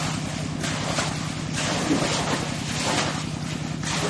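Rushing floodwater and wind buffeting the microphone, swelling in uneven surges, over a steady low motor hum.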